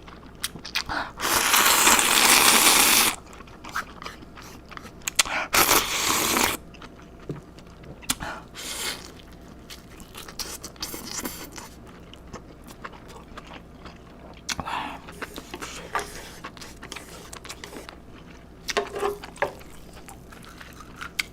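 Close-miked eating: loud crunchy bites, with the longest crunch lasting about two seconds and another about six seconds in, followed by chewing and scattered small clicks and scrapes.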